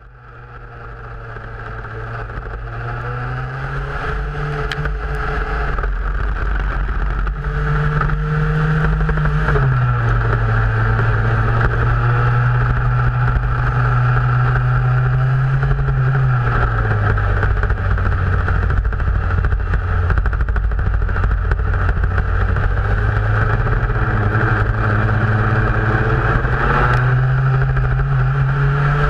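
Formula race car engine running at moderate, fairly even revs, recorded onboard, the pitch easing up and down a little now and then. The sound fades in over the first few seconds.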